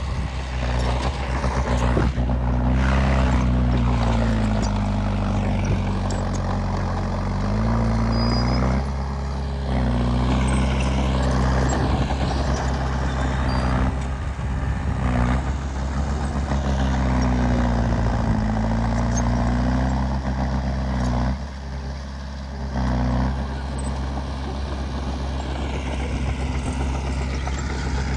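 Heavy diesel engine of earth-moving machinery working under load. Its revs rise and fall repeatedly, dropping briefly about nine seconds in and again a little past twenty seconds.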